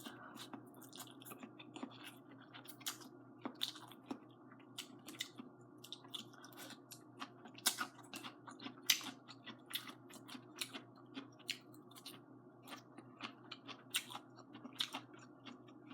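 Close-up eating sounds: wet chewing and smacking of braised noodles and string beans, irregular soft clicks several times a second, over a faint steady hum.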